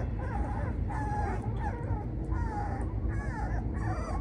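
Three-week-old American Bully puppies whimpering and yipping: a string of short, high whines that bend up and down in pitch.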